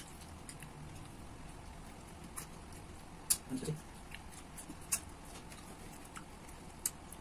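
Quiet eating sounds: scattered small clicks and smacks of people chewing fruit, with a brief faint murmur about three and a half seconds in.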